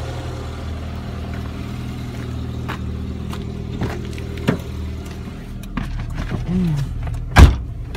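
Daewoo Sens engine idling steadily with no knock, now that the loose crankshaft pulley nut that had caused the knocking is tightened. A few light clicks and one sharp bang near the end.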